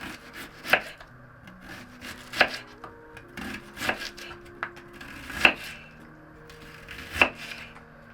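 Chopping on wood: five sharp strokes spaced about a second and a half apart, with a few lighter taps between them.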